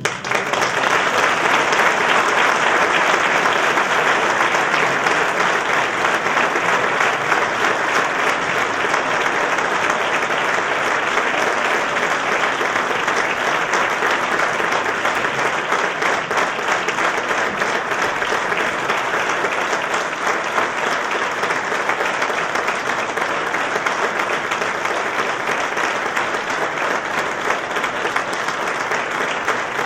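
Audience applause in a theatre, a dense steady clatter of many hands clapping that eases slightly toward the end.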